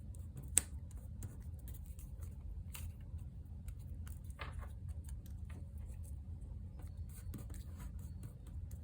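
Paper cutouts being handled and arranged on a desk: scattered light rustles and small taps, with one sharp click about half a second in, over a steady low hum.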